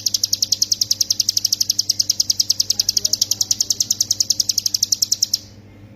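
Ciblek gunung, a prinia, singing a fast, unbroken trill of high, even notes at about ten a second, the rapid 'ngebren' style prized in masteran recordings. It cuts off suddenly about five seconds in.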